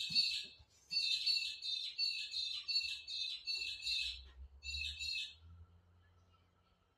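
A bird calling in a fast chattering series for about five seconds, broken by short pauses, then stopping.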